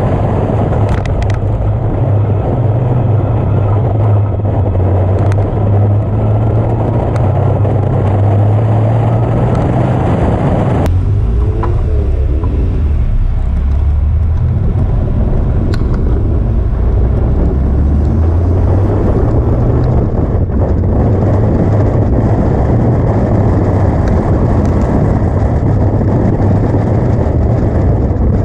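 Caterham Seven 360's four-cylinder engine running under load, picked up close by the car's onboard camera. About eleven seconds in the sound cuts abruptly to a lower, quieter engine note as the car rolls at low speed, which then builds again as it accelerates.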